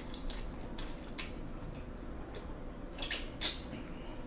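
Eating sounds close to the microphone: a person chewing a mouthful of noodles, with several short mouth clicks and smacks, the two loudest about three seconds in.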